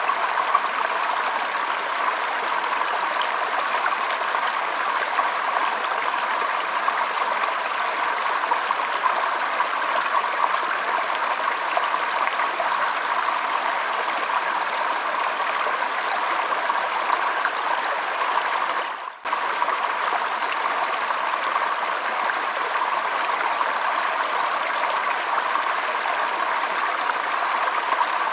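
Shallow stream trickling and flowing in a steady, even rush of water, which dips out briefly about two-thirds of the way through.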